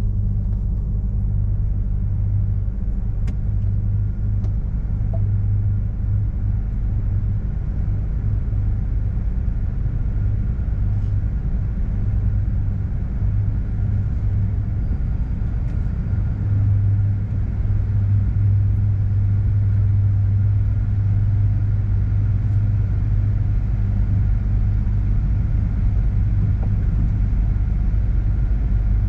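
Steady low rumble of a car and tunnel car wash machinery running, with no sharp events standing out.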